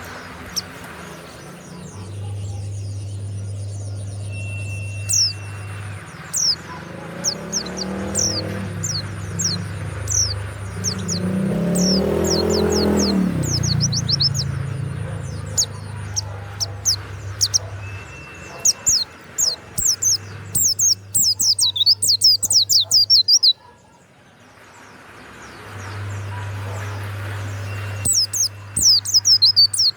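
White-eye (pleci) singing: quick runs of high, thin, downward-sweeping chirps, coming in dense, loud bursts about two-thirds of the way in and again near the end. A low steady hum runs underneath, and a low rumble swells and fades through the middle.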